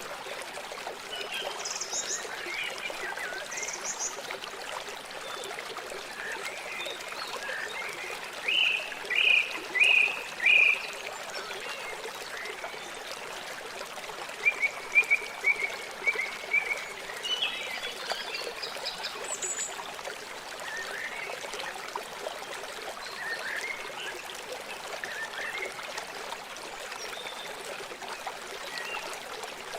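A river flowing steadily, with birds calling over the water: scattered short chirps, including a run of four loud ones about nine seconds in and a string of calls near the middle.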